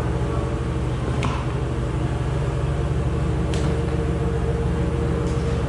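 A car engine idling steadily with an even low rumble, and a few faint clicks over it.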